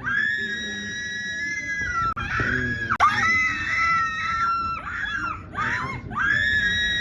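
A person screaming: a string of long, high-pitched screams, each held for a second or two with short breaks between them.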